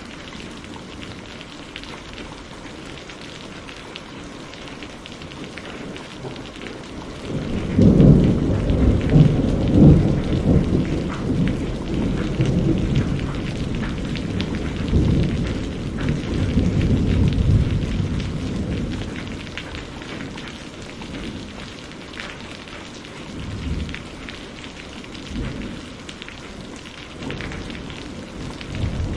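Steady rain with a long roll of thunder that breaks in about a quarter of the way through, peaks over the next couple of seconds and rumbles away over about ten seconds. Fainter rumbles follow, and the thunder builds again near the end.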